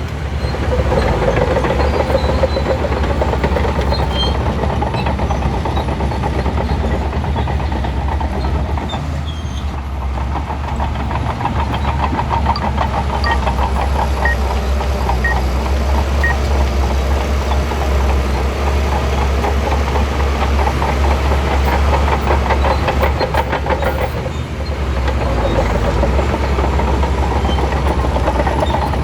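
Shantui crawler bulldozer's diesel engine running under load with the steady clanking of its steel tracks. The sound eases briefly twice before picking up again.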